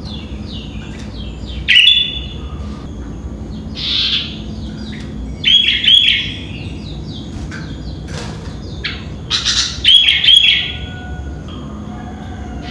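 Sooty-headed bulbul (kutilang) singing three loud, short phrases of a few quick notes, about four seconds apart. Fainter chirps of small birds carry on between them.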